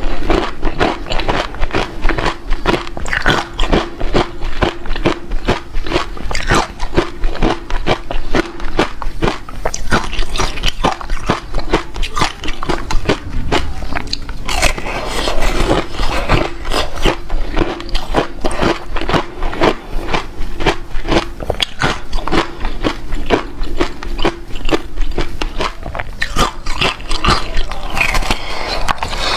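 Close-up crunching of ice being bitten and chewed, a rapid, continuous run of cracks and crackles.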